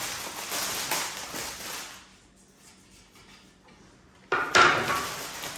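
Handling noise from unboxed ceiling-fan parts: rustling and light knocks for a couple of seconds, a pause, then a sudden louder burst of rustling and clatter about four seconds in.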